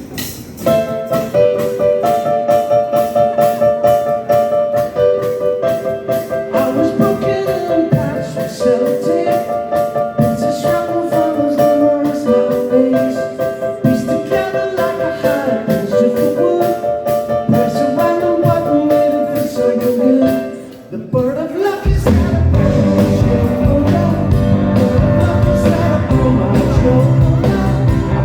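Live rock band playing: a repeating melody over a steady drum beat, then after a short drop about three-quarters of the way through, the full band comes in with heavy bass and drums.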